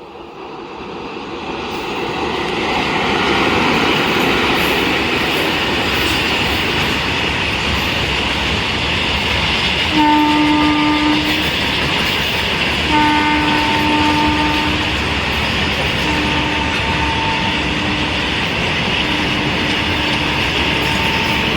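A freight train approaching and running past at speed, its wheel-and-wagon noise building over the first few seconds and then holding loud and steady. The locomotive horn sounds four times, each a blast of a second or two; the first two are the strongest.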